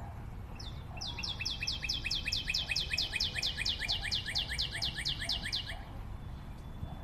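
A bird singing a fast trill of short, high, downward-sliding chirps, about five a second, that starts about half a second in and stops about a second before the end.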